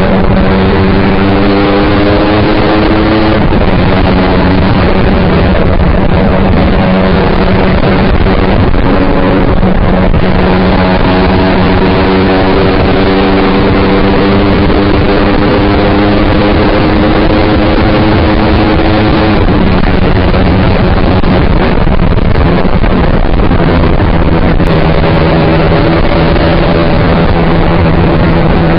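Yamaha R15 V3's single-cylinder engine running under way through an aftermarket SC-Project exhaust, over a loud, steady rush of wind noise. The engine note climbs slowly and drops back a few times, about three seconds in, about ten seconds in and near twenty seconds.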